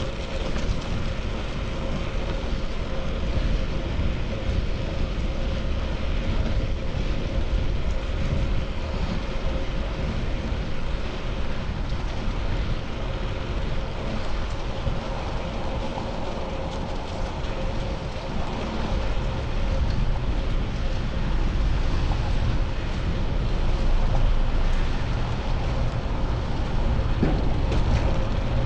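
Wind rushing over a chest-mounted GoPro's microphone while riding a bicycle, with steady road and traffic noise underneath and a faint steady hum throughout.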